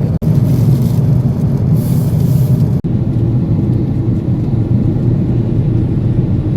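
Airliner cabin noise in flight: a loud, steady low engine and air rumble, broken by two very short dropouts.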